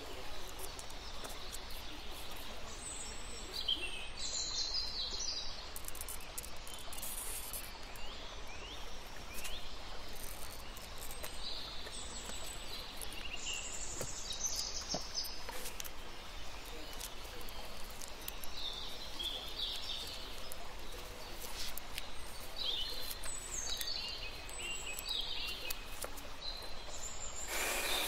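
Birds chirping in short, scattered bursts over a steady background hiss. Just before the end, a glass grinder starts running with a loud, even whir.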